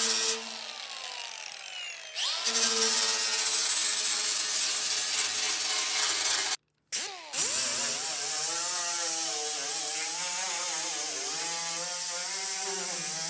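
A small high-speed grinder cleaning up a fresh weld on steel sheet metal. It coasts down with a falling whine soon after the start, then spins back up about two seconds in. From about eight seconds it runs steadily with its pitch wavering as it is pressed into the metal.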